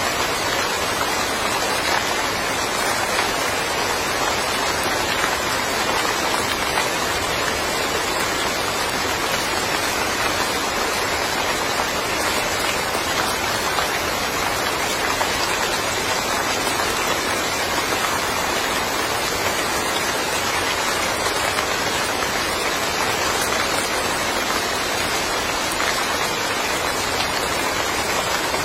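Steady summer rain falling on a small yard: a dense, even hiss of raindrops that neither builds nor eases.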